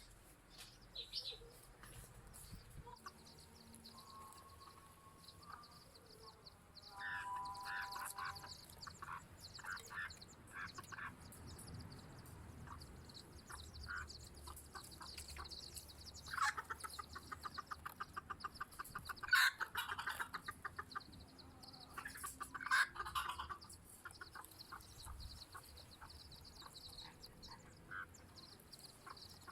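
Chickens clucking, with fast runs of clucks in the middle.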